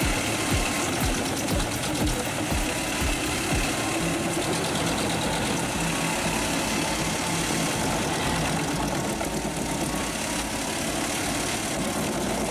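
Large truck-mounted drum wood chipper running under its big diesel engine, a steady heavy machine noise with regular thuds about twice a second in the first few seconds.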